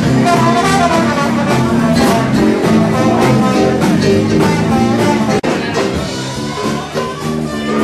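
Jazz-style dance music with horns and guitar playing steadily. About five and a half seconds in there is a sudden brief break, and the music carries on a little quieter.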